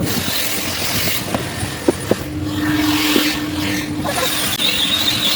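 Coin-operated car vacuum running, its hose sucking air steadily as the nozzle works over the car's interior, with a few light knocks about two seconds in. A high whistle from the suction joins near the end.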